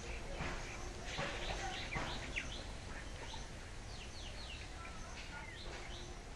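Small birds chirping in short, scattered calls over a low steady background noise.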